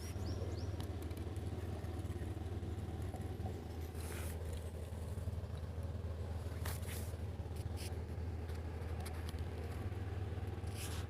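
A mini tractor's engine running steadily with a low, even hum, with a few short scrapes or knocks about four and seven seconds in.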